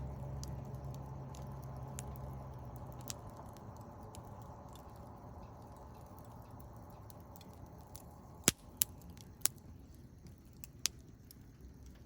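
Wood campfire crackling: scattered small ticks and four sharp, loud pops about eight to eleven seconds in. A low hum fades out about three seconds in.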